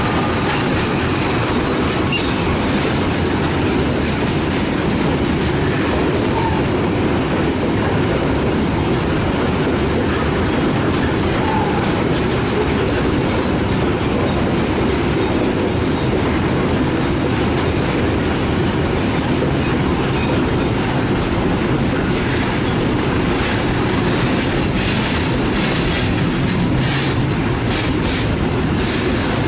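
Long container freight train rolling past, its wagons' wheels clattering steadily over the rail joints with a loud, continuous rumble.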